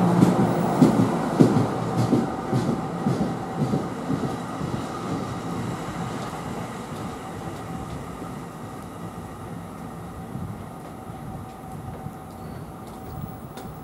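Train passing on the track, its wheels clacking over rail joints about twice a second at first. The clacks thin out after about four seconds and the rumble fades steadily as the train draws away.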